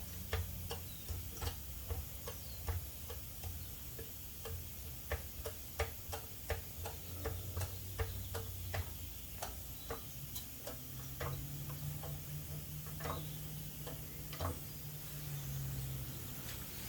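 A jack being worked to raise a truck, giving a fast, regular ratcheting click about three times a second that slows and thins out after about nine seconds, over a low steady hum.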